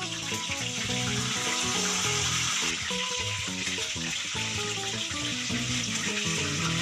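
Hot oil sizzling steadily in a frying pan as pieces of poached chicken deep-fry, with background music over it.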